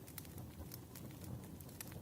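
Recorded campfire ambience: wood fire crackling, with scattered sharp pops and snaps over a soft low rumble of burning.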